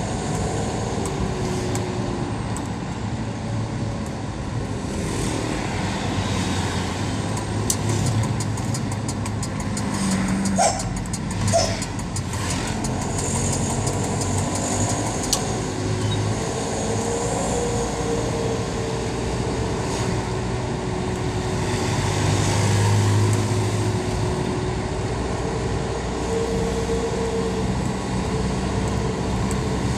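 Engine running through an aftermarket HKS 'serigala' (wolf) exhaust, a steady rumble with slowly wavering pitch. There is a brief patch of clicks about a third of the way in, and the pitch rises near the end.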